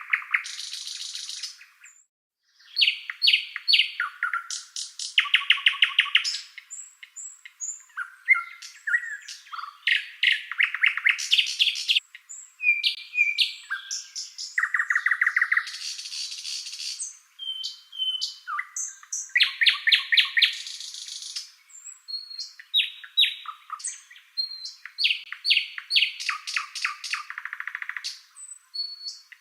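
A songbird singing a long, varied song of fast trills, rattling runs and sharp chirps, with short pauses between phrases.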